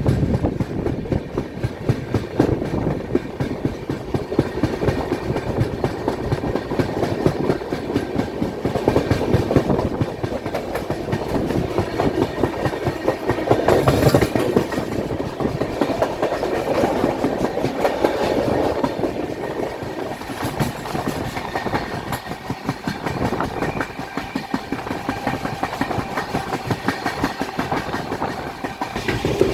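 Indian Railways passenger train running along the track, its wheels and carriages clattering and rattling steadily.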